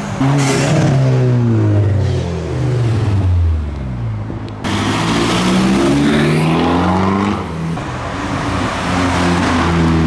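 Car engines driving past close by. The first engine note drops away over the first few seconds. About halfway through a louder car comes in, its note climbing as it accelerates, then holding steady.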